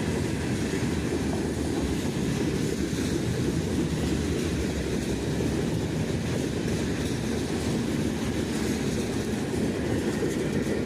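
CN freight train's cars rolling past, a steady unbroken noise of steel wheels on rail.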